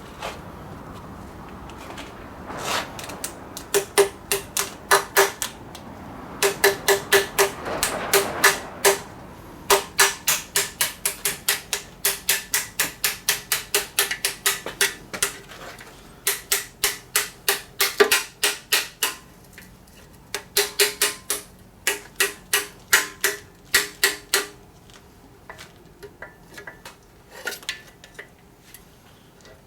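Runs of sharp metallic clicks or taps, about four to five a second, each with a brief ring, in bursts of a few seconds with short pauses, from hand tools working at a Toyota 4A-GE engine's oil pan.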